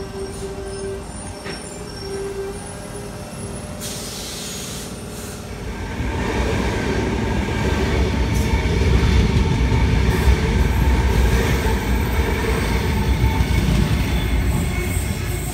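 Sydney Trains electric suburban train passing close along the platform: wheels rumbling on the track, with a steady electric hum. It grows louder about six seconds in as the cars go by.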